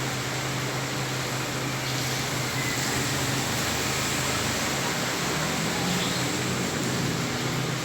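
Heavy rain falling on a flooded street, a dense, steady hiss of rain on standing water, with a steady low hum underneath.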